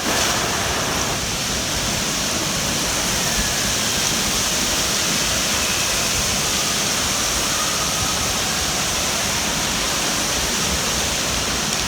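Steady rush of water running down a water-park slide as a rider slides through it, starting suddenly and holding even throughout.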